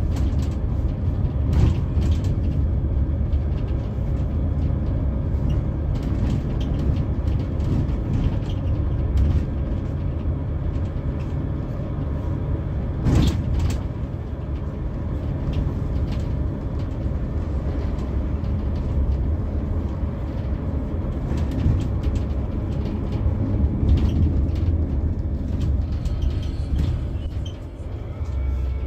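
Scania K360 coach running on the road: a steady low engine and road rumble, with a few short knocks and rattles, two of them about 13 seconds in.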